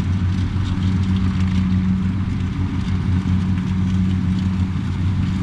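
Kubota DC70 combine harvester's diesel engine running steadily at working speed, a constant low hum.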